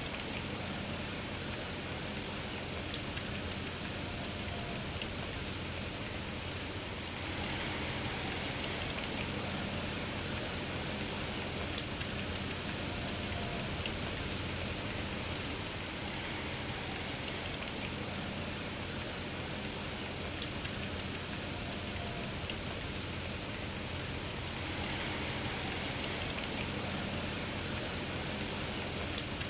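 Steady rain falling, with a sharp single drop striking a hard surface about every eight or nine seconds, four times.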